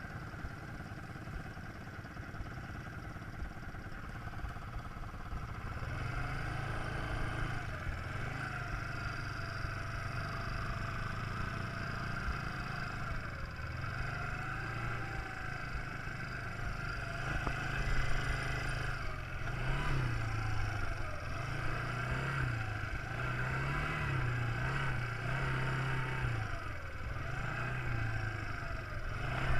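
Quad bike engine running while being ridden. It gets louder about six seconds in, and its pitch rises and falls repeatedly as the throttle is opened and eased.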